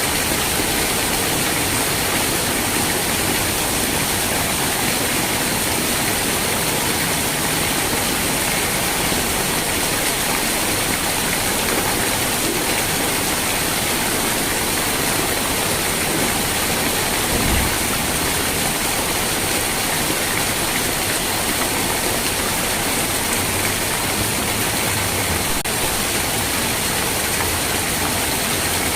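Steady rain, a dense even hiss with no let-up. A single soft low thump about two-thirds of the way in.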